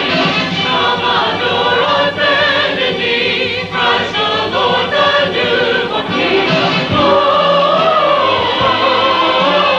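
A mixed church choir singing a Christmas cantata, several voice parts together with vibrato; about seven seconds in they settle into long held notes.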